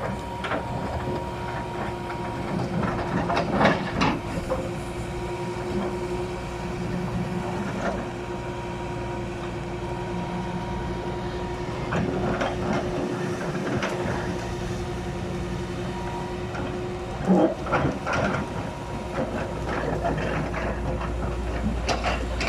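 Hitachi Zaxis 470 LCH hydraulic excavator running steadily, its diesel engine rumbling under a steady whine. A few loud clanks and knocks stand out, about four seconds in and again later on.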